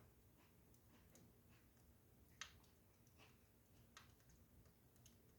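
Near silence with a few faint, scattered clicks, the clearest about two and a half seconds in.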